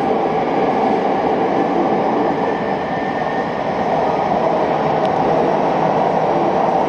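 Joetsu Line local electric train running through a tunnel, heard from inside the carriage: a loud, steady rumble of wheels and running gear with a faint high whine in the middle.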